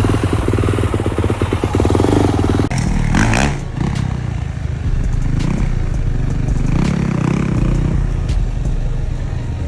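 Dirt bike engine running hard with rapid, even firing for about two and a half seconds, then revving up and down several times.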